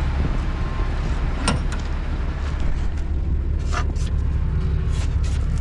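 Dump truck's diesel engine idling with its engine fan engaged, a steady low rumble as the fan cools the engine down, with a few light clicks over it.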